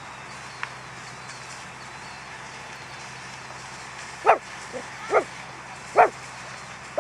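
A dog barking: three loud barks about a second apart, starting about four seconds in, over a steady background hiss.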